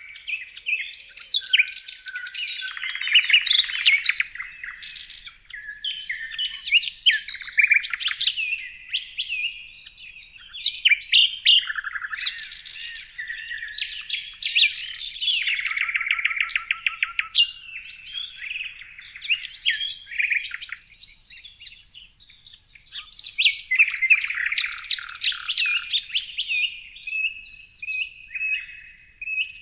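A chorus of songbirds singing and chirping at once: many overlapping whistles, trills and quick chirps, with a steady high note held over the last few seconds.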